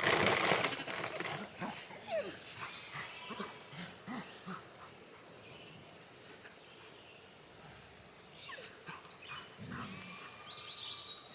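Farm dog vocalizing, loudest right at the start, with a quick run of high chirps near the end.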